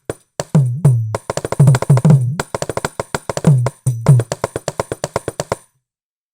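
Sampled Indian hand-drum loop from the SwarPlug 4 virtual instrument. It plays a fast rhythm of sharp strokes mixed with deep bass strokes that slide down in pitch, then stops a little before the end.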